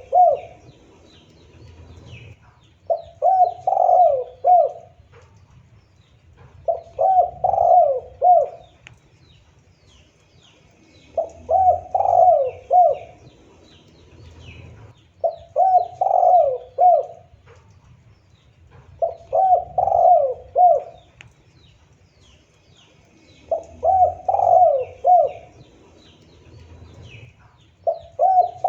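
Spotted dove (tekukur) cooing: a phrase of three or four low sliding coo notes, repeated roughly every four seconds. Faint chirps of small birds sound in the background.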